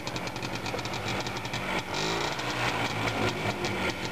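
WSK 125 two-stroke single-cylinder motorcycle engine running with a fast, even beat, revving up about two seconds in as it pulls the loaded trailer through the snow.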